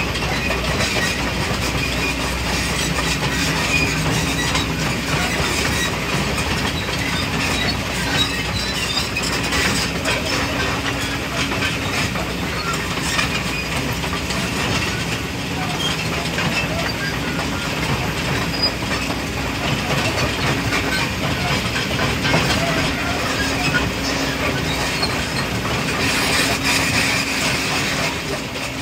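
Mining excavator working: a steady engine hum under a continuous metallic clatter and squeal of tracks and steel parts.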